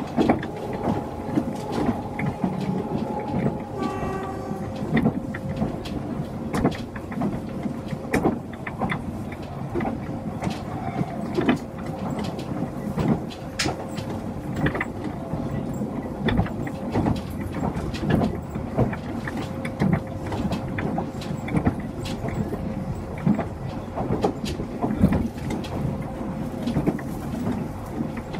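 A Chikuho Electric Railway train running between stations, heard from inside the car: steady rolling noise with frequent clicks of wheels over rail joints and a steady hum. About four seconds in, a short pitched sound rings briefly.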